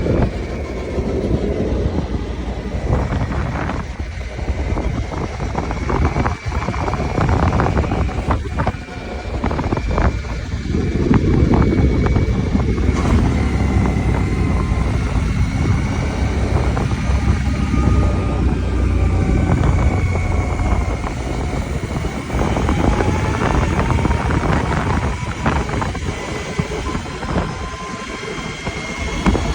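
ATV engine running while riding, with many knocks and rattles throughout and a faint whine that drifts slowly up and down.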